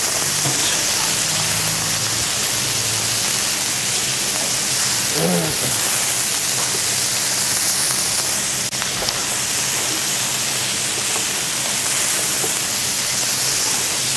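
Chopped bell peppers frying in oil in a wide paella pan, a steady sizzling hiss as they are stirred with a spatula. A single sharp click about two-thirds of the way through.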